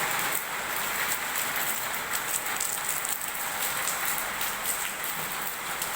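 Rain falling steadily: an even hiss with many separate drop hits.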